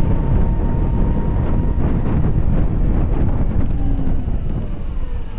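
Wind buffeting on the microphone of a moving VMoto Stash electric motorcycle, a loud steady rumble, with a thin steady whine that fades out about two seconds in.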